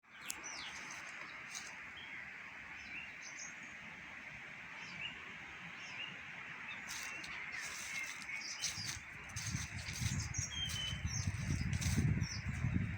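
Several songbirds chirping and calling in short phrases over a steady background hiss. From about nine seconds in, gusts of wind buffet the microphone with a low rumble.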